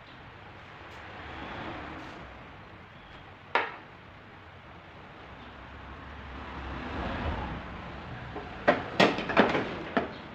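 Sharp taps on a car body panel, typical of paintless dent repair knocking down high spots with a tap-down tool and hammer: one tap about a third of the way in, then a quick run of about five near the end. A vehicle passing swells and fades in the background.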